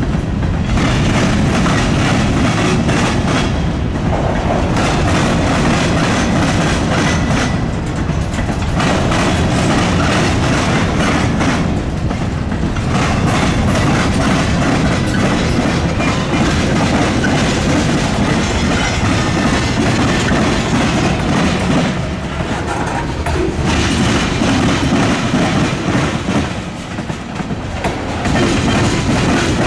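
Freight train rolling past over a railroad diamond crossing, its wheels clattering on the rail joints in a loud, steady run of car after car.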